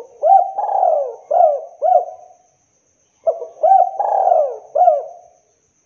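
Spotted dove (tekukur) cooing: two phrases of several coos in quick succession, each phrase about two seconds long, with a short pause between them.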